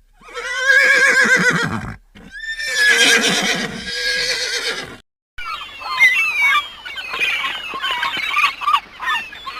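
Horses whinnying: two long, quavering whinnies, then after a brief break about five seconds in, a busier run of shorter, overlapping calls.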